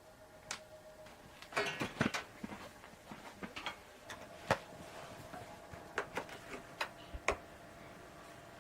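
Scattered light clicks and knocks, a quick cluster about a second and a half in, then single ones every second or so.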